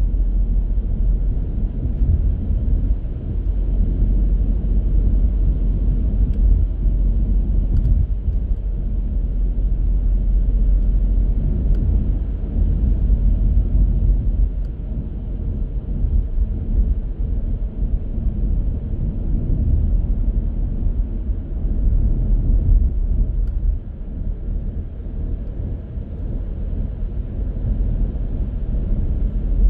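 Steady low road rumble of a car being driven, the tyre and engine noise holding fairly even with small swells.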